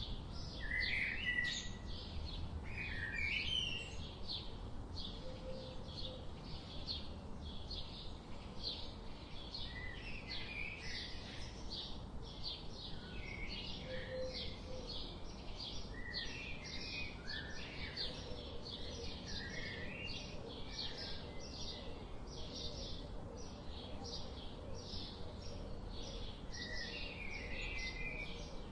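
Birds chirping steadily, with a fast run of short repeated chirps and now and then a lower, sliding call.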